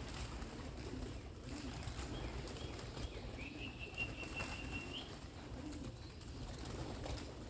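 Pigeons cooing low and repeatedly, with wings flapping now and then. A thin, steady high-pitched note sounds for about a second and a half near the middle, rising slightly at its end.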